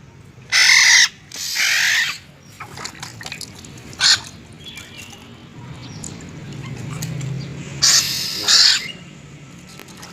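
Bird calls: four short, harsh calls, two in the first two seconds and two more about eight seconds in, with a sharp click about four seconds in.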